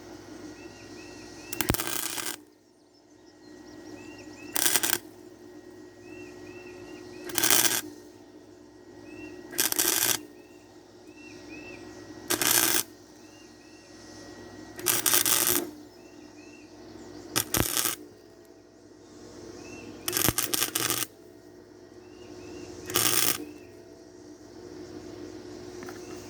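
Electric arc welding on scrap steel bed-frame pieces: about nine short bursts of crackling arc, each under a second and spaced roughly two and a half seconds apart, as the joint is laid down in a string of short stitch welds.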